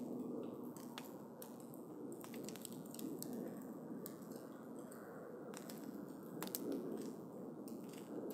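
Wood campfire burning, with frequent sharp, irregular crackles and pops over a steady low rush of the flames.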